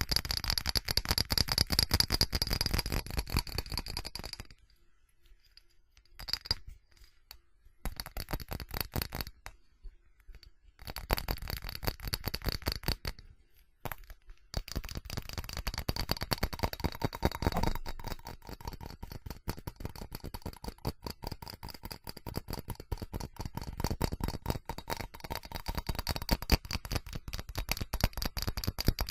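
Fast tapping on ceramic: a dense run of quick, light clicks with a faint ringing tone, stopping briefly a few times in the first half before running on steadily.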